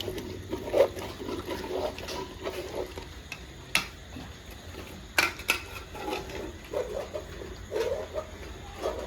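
A metal spoon stirring chicken curry in a pot, with a scraping, wet sound and a few sharp clinks against the pot.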